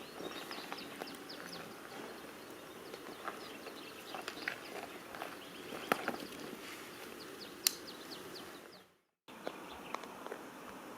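Woodland ambience: small birds chirping, with scattered clicks. The sound fades out about nine seconds in, drops to silence for about half a second, then comes back.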